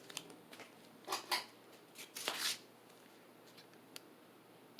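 Several short rustling, scraping handling noises over a faint, low steady hum from a ceiling fan running on medium speed.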